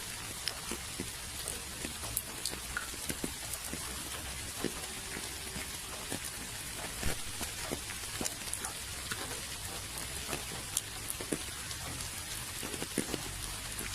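Steady rain falling, with a constant hiss and many separate drops landing close by as irregular sharp taps.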